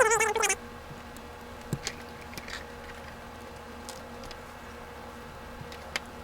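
A brief, loud, wavering high-pitched sound at the very start, then a few faint scattered clicks, typical of plastic LEGO pieces being handled, over a steady low hum.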